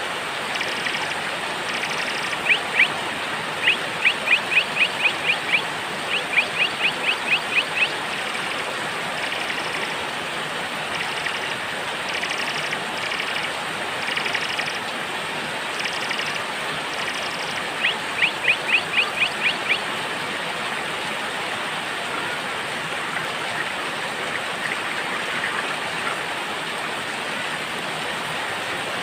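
Steady rain with small birds chirping over it: several runs of quick, evenly spaced chirps, about four a second, in the first third and again after the middle, with fainter short high calls repeating between them.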